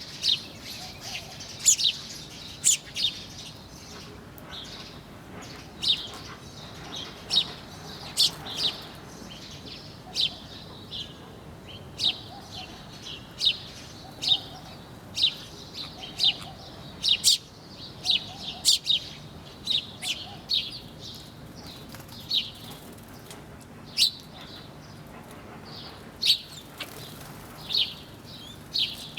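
Small birds chirping: short, sharp, high chirps, about one or two a second at irregular intervals, over a faint steady background hiss.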